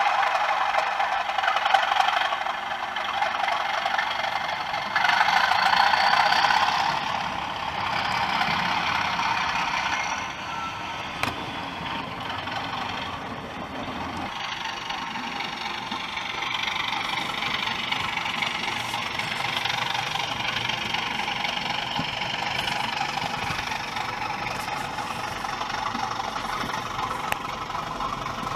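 DCC sound decoder in an OO gauge model diesel locomotive playing recorded diesel engine sound through its small speaker, the engine note shifting in pitch as it runs, with a louder stretch about five seconds in.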